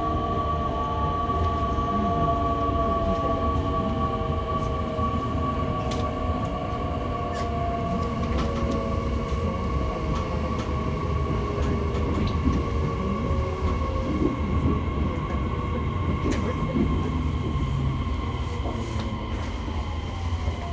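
Electric motor car of an E501 series train slowing into a station: inverter and traction-motor tones fall slowly in pitch over the first half and again near the end, over a steady whine and wheel-on-rail rumble with scattered sharp clicks.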